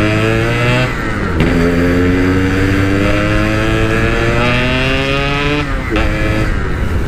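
Yamaha RX-King two-stroke single-cylinder motorcycle accelerating hard: the engine note climbs steadily in pitch, drops at an upshift about a second in, climbs again for several seconds and drops at a second upshift near the end.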